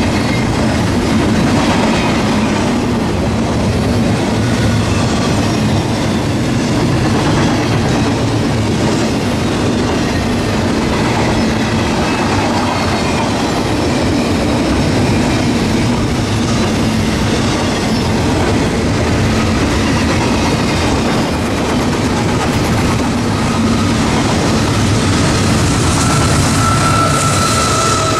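CSX double-stack container train rolling past close by: a steady rumble of wheels on rail with the clickety-clack of the cars. Near the end a high whine comes in and falls slightly in pitch as a mid-train locomotive draws level.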